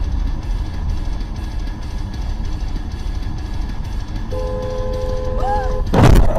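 Vehicle rumble from a dashcam. A car horn sounds steadily for about a second and a half, then a loud crash impact hits near the end.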